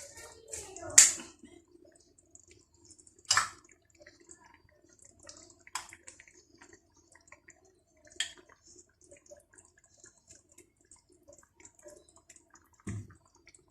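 Mussels in their shells being set into a paella pan, with sharp clicks of shell against shell or pan about every two and a half seconds, the first the loudest, and a dull thump near the end. Faint wet crackling from the simmering rice runs underneath.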